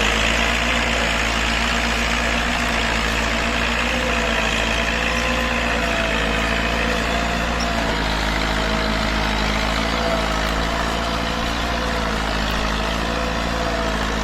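Diesel tractor engine running steadily under load, pulling a disc harrow through sugarcane trash.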